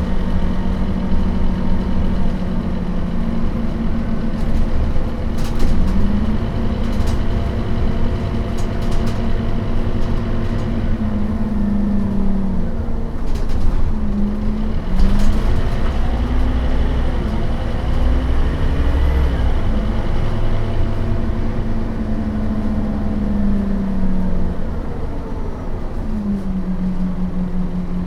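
Scania DC9 five-cylinder turbodiesel and ZF Ecomat automatic gearbox of a Scania K270UB bus driving, the engine and gearbox pitch rising and dropping several times as the bus accelerates, shifts and slows, then settling to a steady tone near the end. A few short rattles or knocks come between about 5 and 15 seconds in.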